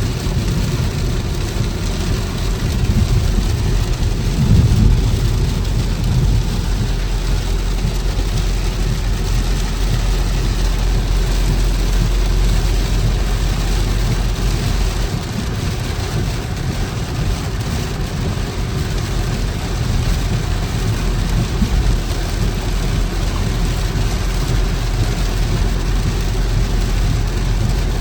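A car driving in heavy rain: a steady low rumble of engine and road under an even hiss of rain.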